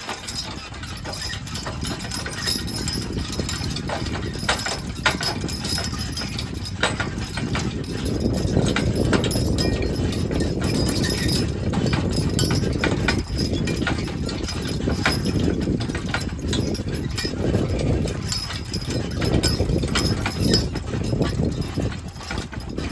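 A team of draft horses clopping along, irregular hoofbeats over a steady low rumble.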